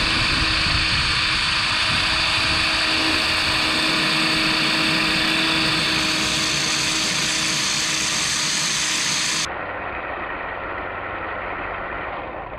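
Brushed electric motor and drivetrain of a 1/16-scale RC monster truck, whining steadily at high speed. About three-quarters of the way through the sound abruptly loses its highest part and gets quieter, then fades out at the end.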